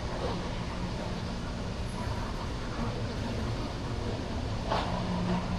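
CSX freight train running by with a steady low rumble and a steady engine hum.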